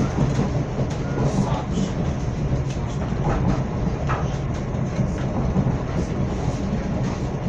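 Passenger train running on the track, heard from on board: a steady low rumble with a few sharp clicks from the wheels on the rails.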